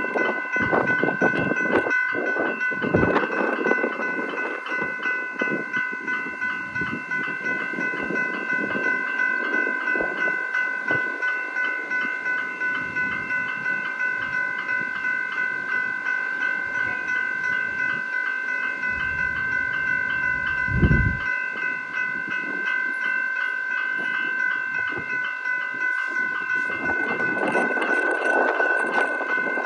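Level crossing warning bell ringing steadily in a rapid, even repeat. A train's rumble over the rails rises near the start and again near the end.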